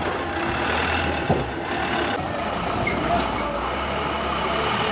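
Truck engine running as the truck drives over river pebbles, with one sharp knock a little over a second in.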